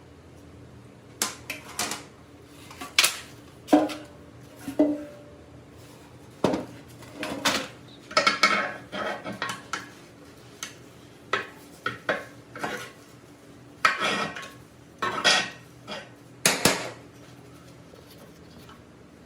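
Metal tools and parts clinking and clanking at irregular intervals, a couple of knocks ringing briefly, then a few seconds with no knocks near the end.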